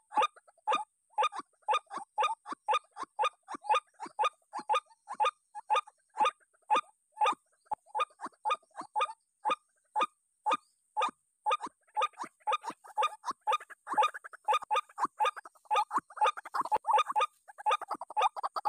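White-breasted waterhen (ruak-ruak) calling: a long run of short, harsh notes repeated about three times a second. After about twelve seconds the notes come thicker and overlap, as if more than one bird is calling.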